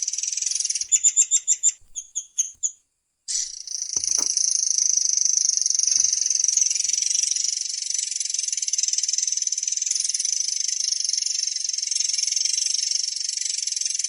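Murai air songbird singing a long, rapid, high-pitched rolling trill. About a second in the trill breaks into a quick series of separate chirps, then stops for a moment. The unbroken trill then resumes and runs on.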